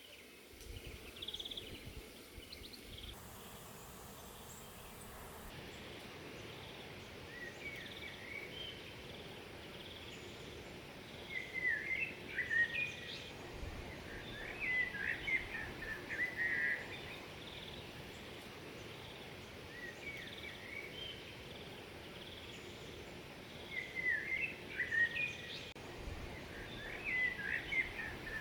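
Small birds singing in short, quick chirping phrases over a steady background hiss. The song comes in clusters about a third of the way in and again near the end.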